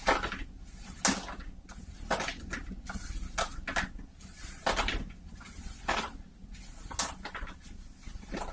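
A cloth hat being scratched, rubbed and tapped close to a binaural microphone for ASMR, in short, sharp scratchy strokes coming irregularly about once or twice a second.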